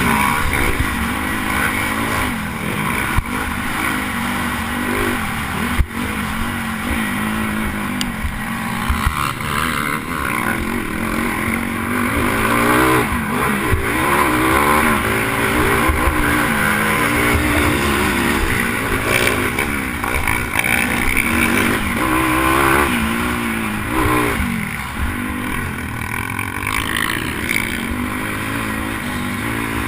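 Pit bike's small single-cylinder engine revving up and down continuously under hard riding, its pitch climbing and dropping again and again. Two sharp knocks stand out in the first several seconds.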